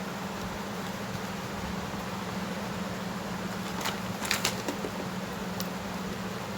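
A steady low hum over a background hiss, with a few sharp clicks about four seconds in and one more shortly after.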